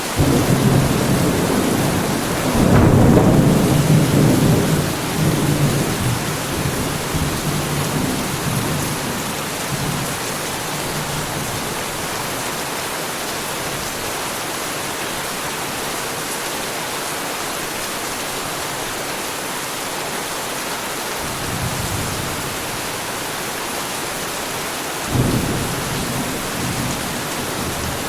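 Heavy rain falling steadily with thunder: a long rolling peal that breaks in right away, peaks about three seconds in and fades over several seconds, a softer rumble a little after twenty seconds, and a sharper crack of thunder near the end.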